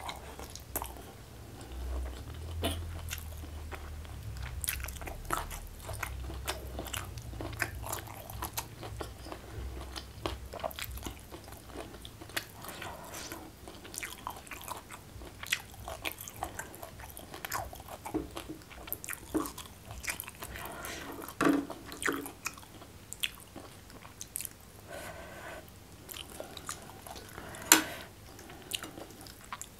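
Close-miked eating sounds: biting and chewing of a rice meal eaten by hand, with many short sharp wet clicks of the mouth. A few louder snaps come in the second half, the loudest near the end.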